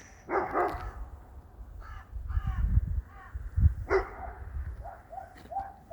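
Short harsh animal calls: a few near the start, a cluster in the middle, and a run of about two a second near the end, over a low rumble.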